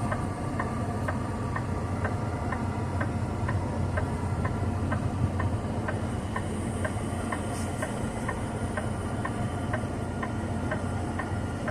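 Hazard-flasher (four-way) relay ticking in a semi truck's cab, about two clicks a second, over the steady low rumble of the truck's diesel engine while backing up slowly.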